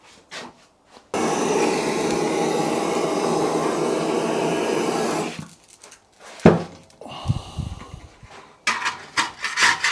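A heat gun switches on and runs with a steady rushing blow for about four seconds, heating a motorcycle fuel tank to soften old tank sealer, then cuts off. A single knock follows. Near the end, rapid scraping strokes begin as the softened sealer is scraped off.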